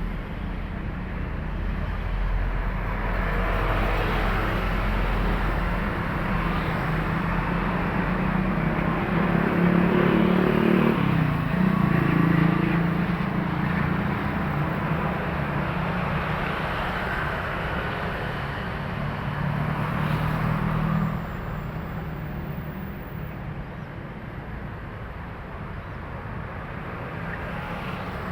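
Heavy road traffic: large trucks passing with low diesel engine drone and tyre noise. One passes loudest about a third of the way in, and the traffic gets quieter about three quarters through.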